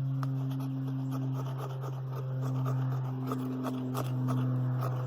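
A worn fire striker being scraped again and again, short rasping strokes every few tenths of a second, throwing only a little spark. A steady low hum runs underneath.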